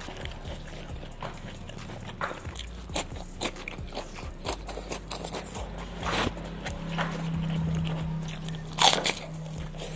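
Close-miked eating: wet chewing and crunching of raw food, with many small clicks of bites and mouth sounds and a loud crunchy bite just before the end. A low steady hum runs under the second half.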